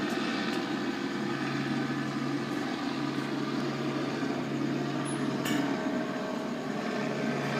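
Police helicopter flying overhead, a steady engine and rotor drone.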